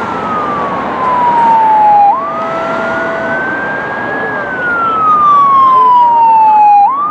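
Fire apparatus siren on a wail: a single tone sliding slowly down, sweeping quickly back up about two seconds in, falling slowly again and rising once more near the end, over steady traffic noise.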